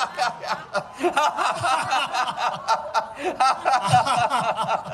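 A group of people laughing together on cue in a laughter yoga exercise, many voices overlapping in short, choppy bursts of laughter.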